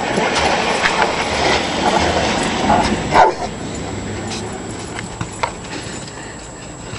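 A dog playing in snow: a rustling, scuffling noise with one short, loud bark about three seconds in.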